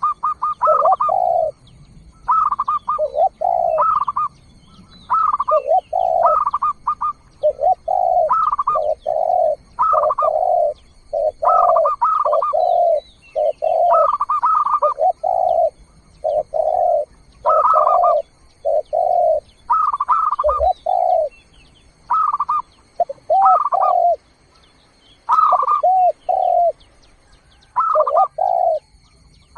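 A bird calling over and over in a two-part phrase, a higher note followed by a lower one, repeated about every one to two seconds.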